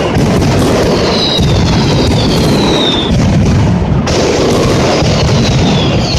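Mascletà firecracker barrage: a dense, continuous rattle of loud bangs, with several whistles falling in pitch above it.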